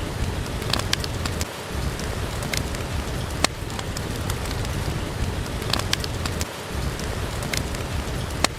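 Steady rain falling, with a deep low rumble under it and a scattering of sharp pops and crackles from a wood fire.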